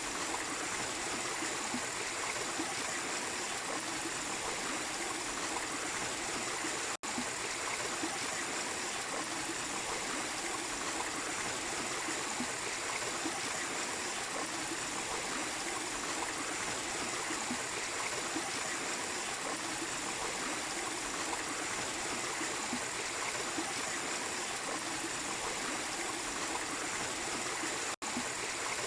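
A small waterfall running steadily, an even rush of water, broken by two split-second dropouts, one about seven seconds in and one near the end.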